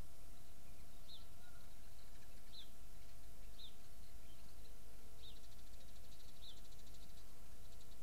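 A small songbird calling: short, high, downward-sliding notes repeated about once a second, with a fast buzzy rattle a little past the middle, over steady low background noise.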